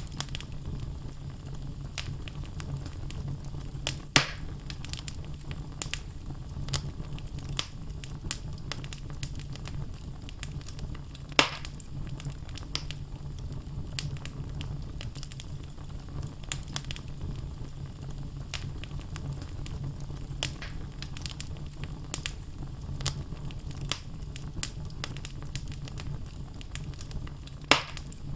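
Wood fire crackling in a fireplace: a steady low rumble of flame with scattered sharp crackles, and three louder pops about four seconds in, near the middle and near the end.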